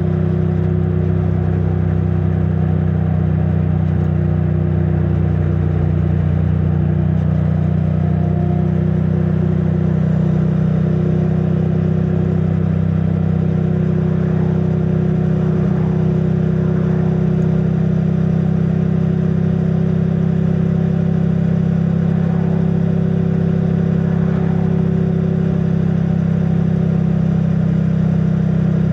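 2022 Triumph Bonneville T100's 900 cc parallel-twin engine through its stock exhaust, running at a steady cruise with the pitch holding nearly constant.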